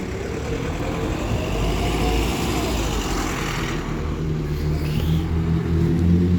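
Road vehicle engine running and passing, its low rumble growing louder in the last couple of seconds.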